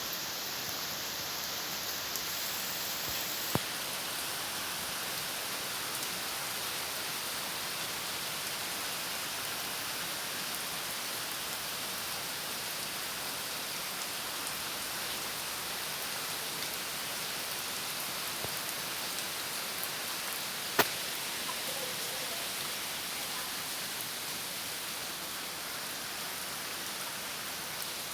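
Steady rain falling, an even dense hiss, with a short sharp tick a few seconds in and a louder one about two-thirds of the way through.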